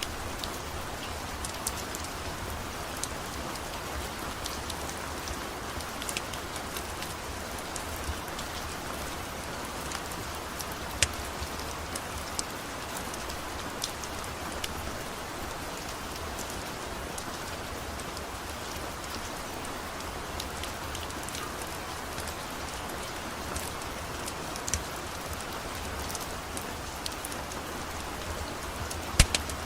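Steady rain falling, with scattered sharp ticks and pops over it; one loud pop comes about a third of the way through and another just before the end.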